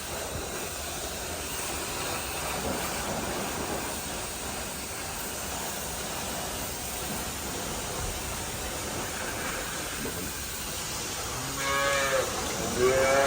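Cattle mooing twice in quick succession near the end, over a steady background hiss.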